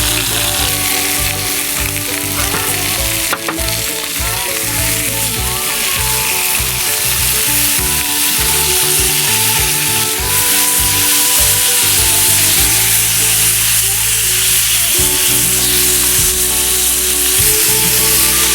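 Beef tongue steak sizzling as it fries over a campfire, a steady hiss, with one sharp click about three seconds in. Background music plays throughout.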